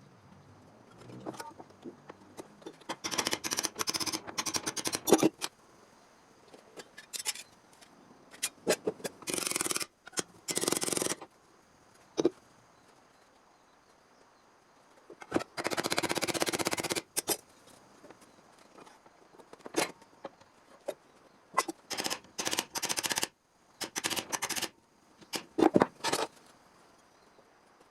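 Hand work on a sheet-steel panel: several bursts of scraping, each a second or two long, with sharp clicks and taps between them.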